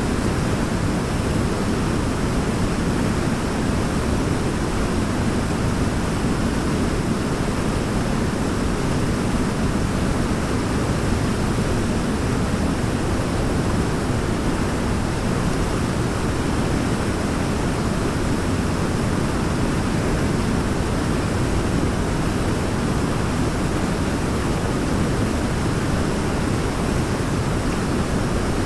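Waterfall: a deep, steady rush of falling water that holds even and unbroken.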